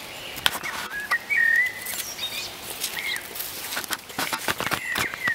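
Birds chirping: several short high calls, one held a little longer about a second in, with scattered sharp clicks and knocks over a steady background hiss.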